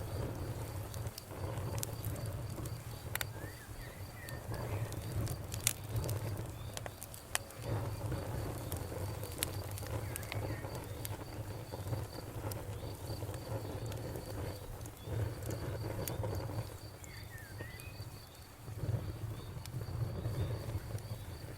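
Campfire burning with scattered sharp crackles and pops over a low rumble that swells and fades every few seconds. Crickets chirp steadily in a fast pulsing trill behind it.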